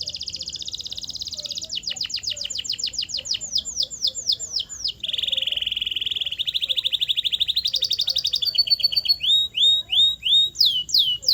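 Canary singing a long, varied song: rapid trills and runs of repeated high notes, some falling in pitch, switching phrase every second or two.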